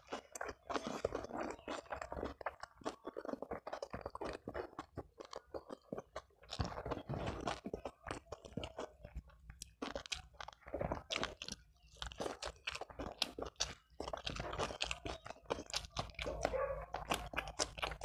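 A person chewing and crunching a mouthful of food, a dense run of crunches and clicks with a few short pauses.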